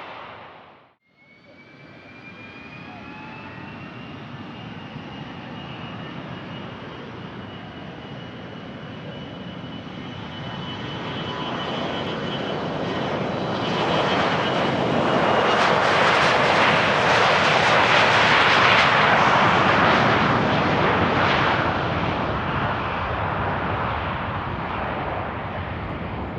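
Gulfstream G550 business jet, its two Rolls-Royce BR710 turbofans running as it moves along the runway. A high jet whine rises slightly in the first few seconds, the engine noise swells to its loudest a little past halfway, then fades away.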